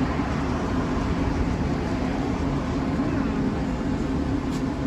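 A steady mechanical hum with a low rumble under it, unchanging throughout, like an engine running.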